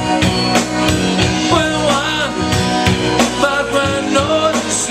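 Live rock band playing: drum kit beating steadily under guitar and bass, in an instrumental stretch between sung lines.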